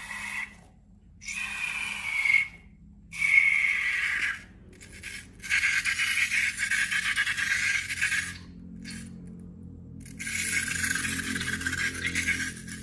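Five bursts of scraping, rubbing handling noise from slime and balloons being worked by hand, each one to two and a half seconds long, over a faint low background hum.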